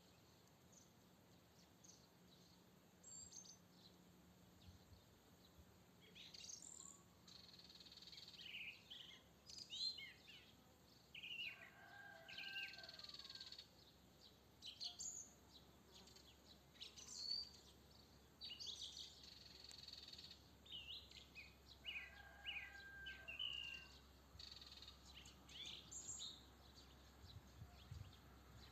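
Quiet songbird song in a garden: several short chirping and whistled phrases, coming and going, over a faint steady background hum.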